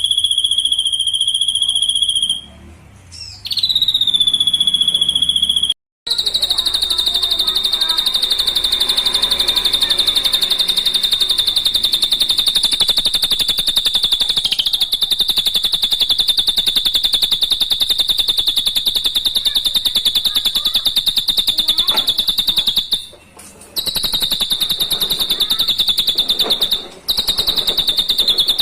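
Drongo song: a high, steady whistled note held for many seconds at a time, rapidly trilled, broken by a few short pauses and one abrupt cut about six seconds in.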